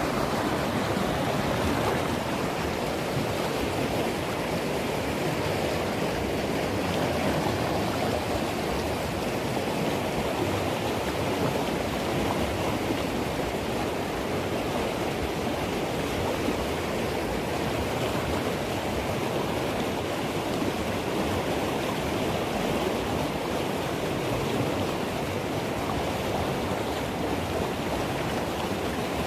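Swollen mountain river rushing steadily in flood: the East Fork of the San Gabriel River running high after heavy rain.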